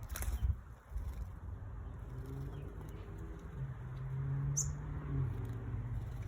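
Birds at a garden bird bath: a low, broken call repeated in short segments through the middle, with a single short high chirp a little past halfway and a sharp click at the start.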